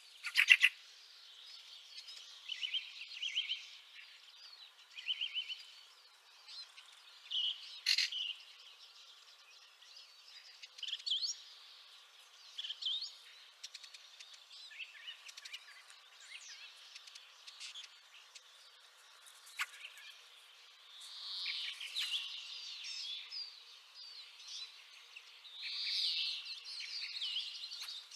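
Fieldfares calling: bursts of short chattering calls every few seconds, with longer and louder bursts in the last third.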